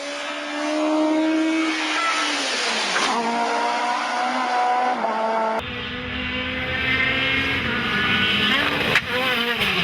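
Rally car engines at high revs, the pitch climbing and dropping through gear changes, with a different car taking over abruptly about halfway through. Near the end the engine note falls steeply as the car lifts off.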